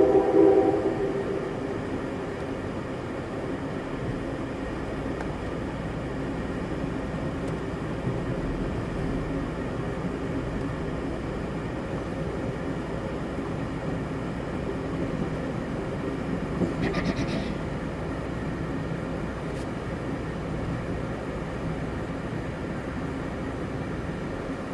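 Amtrak Empire Builder passenger train rolling along, a steady low rumble of wheels on rail. The locomotive horn's chord is just ending about a second in, and a brief burst of clicking comes about two-thirds of the way through.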